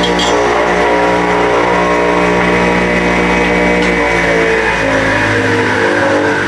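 Electric saw running steadily while ripping a cedar fence picket lengthwise into narrow strips. Its motor tone shifts in pitch a few times as the cut loads it, most noticeably about four to five seconds in.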